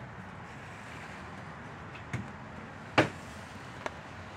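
Steady background noise with a few sharp knocks or clicks; the loudest knock comes about three seconds in.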